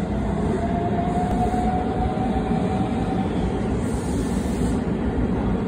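JR West electric train running alongside the platform: steady low rumble of the cars moving, with a faint whine that rises slightly in pitch over the first three seconds and then fades.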